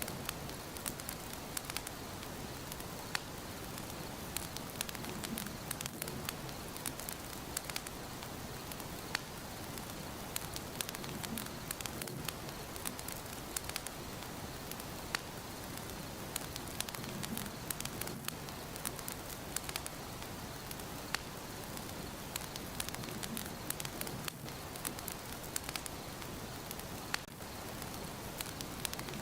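Wood fire burning in a fireplace, crackling and popping with frequent sharp, irregular snaps over a steady hiss.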